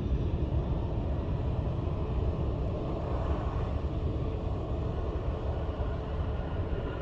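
Steady low rumble of jet airliner engines at the airport, swelling slightly around the middle.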